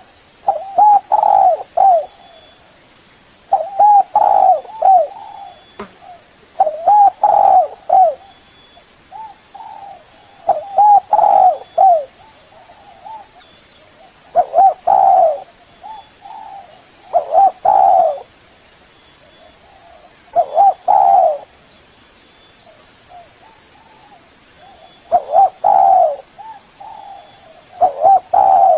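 Spotted dove cooing: about nine phrases of low, mellow coos, each about a second long, repeated every two to four seconds.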